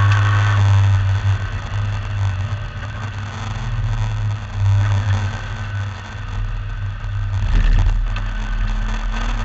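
V8 engine of a racing MGB V8 heard from on board, running at fairly even revs that ease off and pick up again a few times. About three-quarters of the way through comes a deeper rumble with a few knocks.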